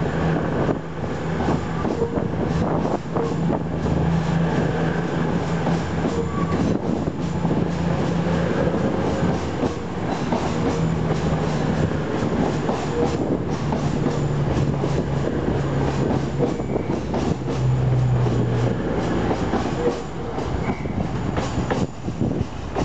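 East Midlands Trains Class 222 Meridian diesel multiple unit running along the track: its underfloor diesel engines hum steadily while the wheels click over rail joints.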